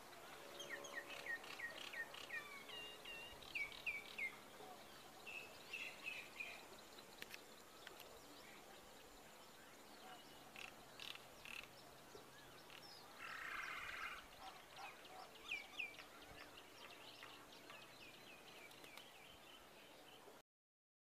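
Small birds calling by a river: quick runs of short, high, down-slurred chirps in several bursts, with one harsher scratchy call partway through, over faint outdoor background noise. The sound cuts off just before the end.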